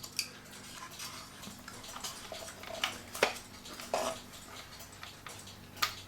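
Scattered light clicks and knocks of a screwdriver and a wooden cuckoo-clock whistle box being handled as the box is worked free, the sharpest tap a little after three seconds in, over a faint steady hum.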